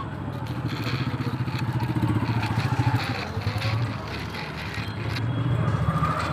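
Motor vehicle engine running with a pulsing low drone, growing louder through the first half, dipping about four seconds in and rising again near the end.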